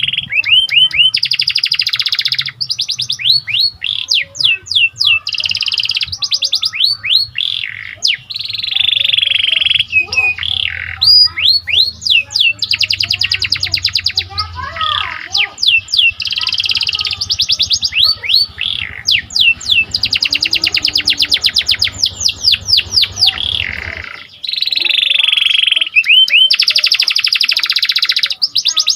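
Domestic canary (panda-pied) singing a long, loud song of fast rolling trills. The repeated notes come in rapid trains with brief breaks between phrases. A faint low hum underneath stops near the end.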